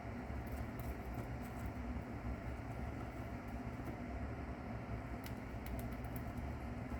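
Faint, crisp clicks in two scattered clusters, near the start and about five seconds in: a mouse crunching a cicada's hard shell. Under them runs a steady low hum.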